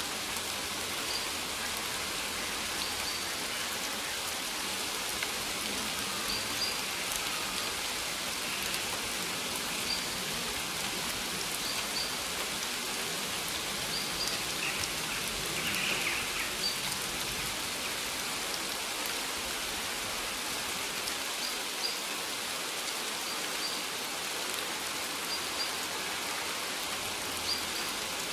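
Steady rain falling on maize plants, an even patter with scattered individual drop ticks. A faint, short, high chirp recurs every second or two.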